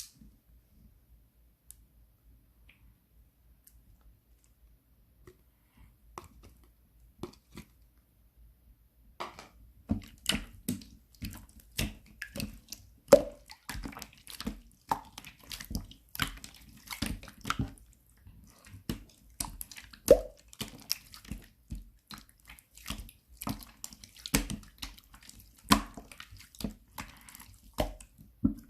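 Slime being squished and pressed by hand, making wet, sticky clicks and pops. Only a few faint clicks at first; from about nine seconds in, the pops come thick and irregular, several a second.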